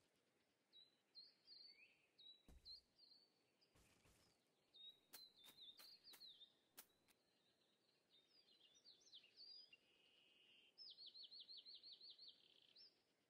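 Faint bird chirps and short songs, ending in a quick run of about ten repeated notes, with a few sharp clicks in the middle.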